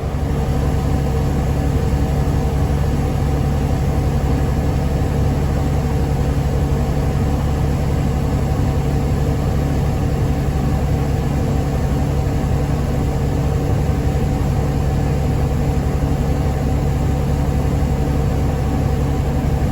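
Tractor engine running steadily under way while pulling a grain cart, an even drone with no change in speed.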